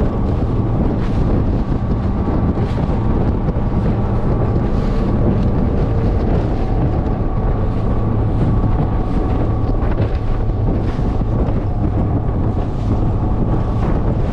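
Skeeter bass boat running across choppy water: a steady outboard engine drone with the hull slapping the chop about once a second, and wind buffeting the microphone.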